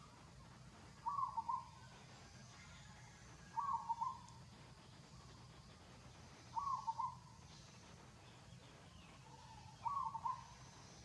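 Four short animal calls about three seconds apart, each a quick run of rising and falling notes, over a faint steady background.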